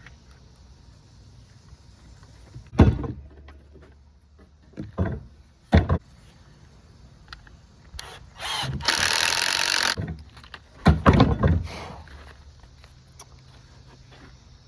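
Wooden frame pieces being knocked and set into place, a few sharp knocks, with a power drill driving a screw into the wood for about a second and a half near the middle, then more knocks.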